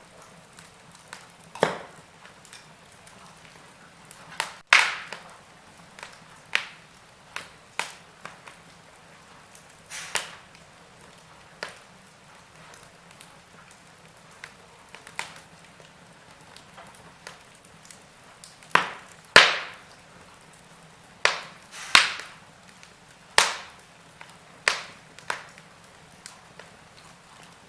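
Wood fire crackling in a fireplace: sharp pops and snaps at uneven intervals, about one or two a second, over a soft hiss, with a few louder pops about five seconds in and near the middle.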